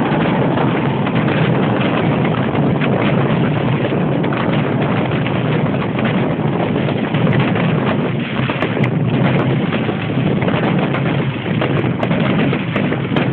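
Fireworks crackling overhead: a dense, steady rattle of many small pops and cracks with no single big boom standing out.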